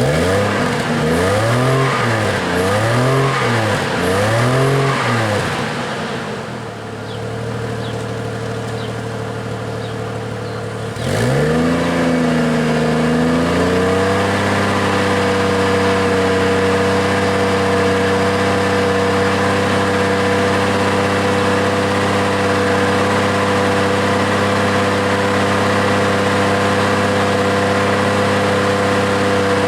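Chevrolet Trailblazer's 4.2-litre inline-six through a straight-pipe exhaust, blipped three times in quick succession, then settling back to idle. About eleven seconds in it revs up again and holds a steady, higher engine speed.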